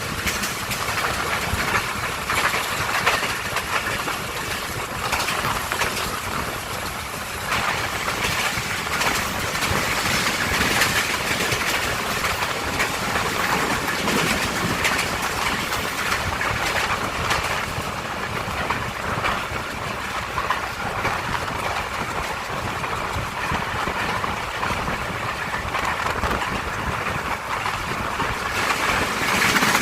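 Train running along the track, heard from on board: a steady rumble and rush of wheels on rails, with some faint irregular clicks.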